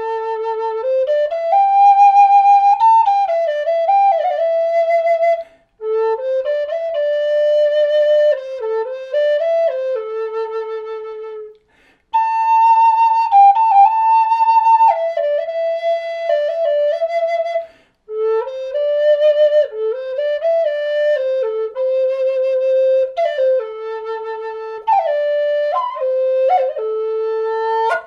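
Mid-range Native American flute in A minor, a High Spirits Loon bird-head flute of aromatic cedar, playing a slow melody in four phrases with short breaths between them. The melody spans about an octave, with some vibrato on held notes, and it ends on a held low note.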